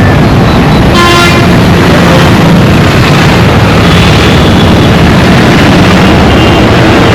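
Dense, continuous road traffic noise with engines running, and a short vehicle horn toot about a second in and a fainter horn near the middle.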